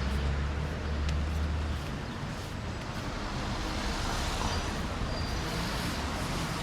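Street traffic: a motor vehicle's low engine rumble close by for the first two seconds, then the steady hiss and rumble of passing road traffic.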